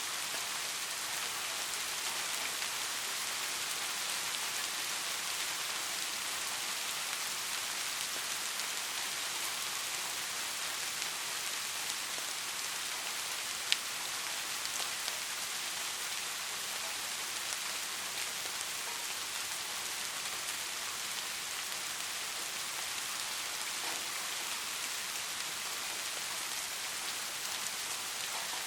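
Steady soft rain falling, an even pattering hiss of many drops, with one sharp tick of a single drop about halfway through.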